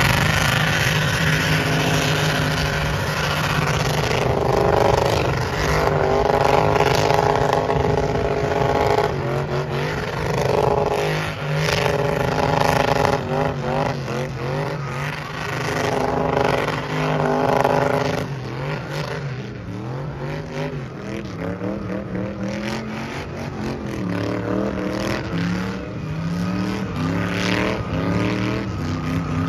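Burnout car's engine revving hard through a tyre-spinning burnout, held at high rpm for long stretches, then rising and dropping in pitch again and again in the last third, over a hiss of spinning tyres.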